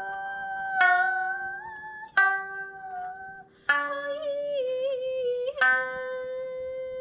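A sanshin plucks single notes about every one and a half to two seconds, four in all, while an ocarina holds long notes over them in a slow melody.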